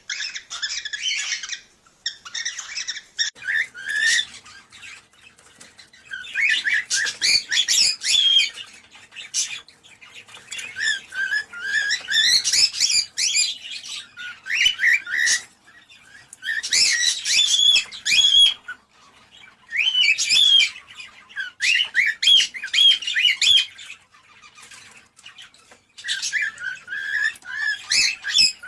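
Cockatiels chattering and warbling in repeated bursts of quick chirps and squawky whistled notes, each burst lasting a second to a few seconds, with short pauses between.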